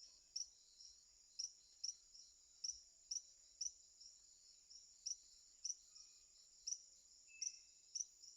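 Rainforest insects: a steady high-pitched drone with a short, sharp chirp repeating about twice a second, and a few faint bird notes near the end.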